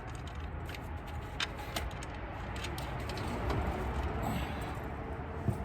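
Scattered metallic clicks and clinks of hand tools on engine parts while the alternator and power-steering pump are being unbolted, over a steady low hum.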